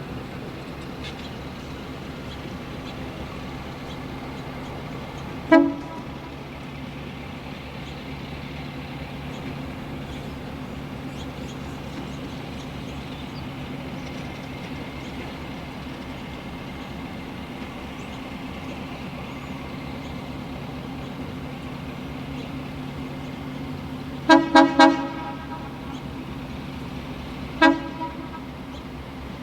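Locomotive horn sounding short toots over a steady engine drone: one toot, then three quick toots in a row near the end, then one more.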